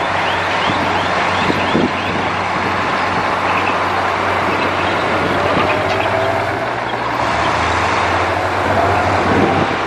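Heavy diesel earthmoving machinery running steadily under load, with a constant low engine hum. A quick series of high repeating chirps, about three a second, fades out in the first second or so.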